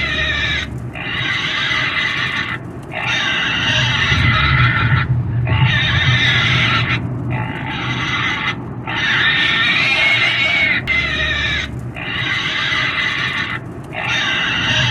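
Pig squealing loudly over and over: shrill squeals of one to two seconds each, with brief breaks between them.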